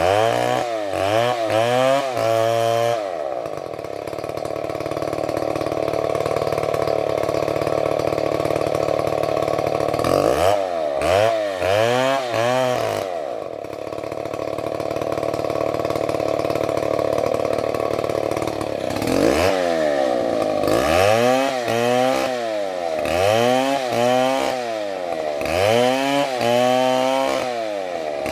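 Chainsaw engine revved up and down about once a second, then held at a steady high speed for several seconds. This happens twice, followed by a longer run of rev cycles over the last third.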